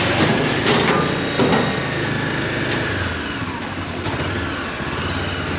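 Honda CB400X motorcycle engine running on the move, under a steady rush of wind and road noise, with a couple of brief knocks.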